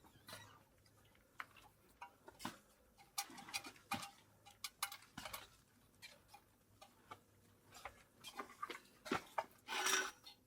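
Scattered, irregular light clicks and knocks, with a short louder rustle near the end.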